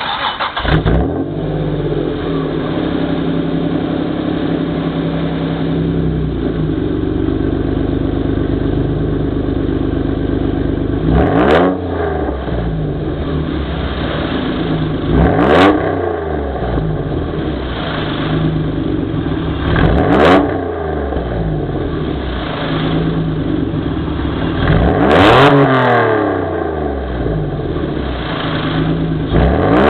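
Honda NSX's 3.1-litre mechanically tuned V6 breathing through a titanium muffler, coming up to a steady idle and then revved in short blips about every four to five seconds, each rise in pitch falling straight back to idle.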